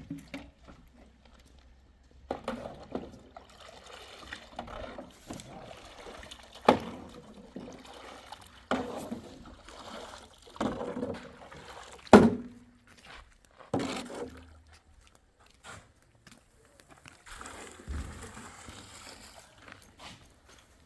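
Water splashing in repeated strokes, about one every two seconds, with fainter handling noise after them.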